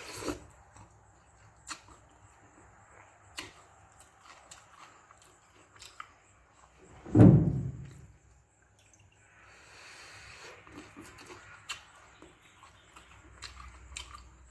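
A person eating wet fermented rice (pazhaya sadam) with okra stir-fry: scattered soft, wet mouth clicks from chewing. About seven seconds in there is one much louder, deeper sound.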